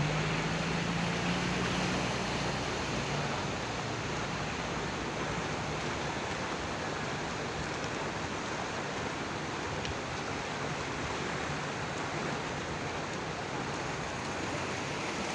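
Steady rush of floodwater, with a low engine hum in the first few seconds that then fades.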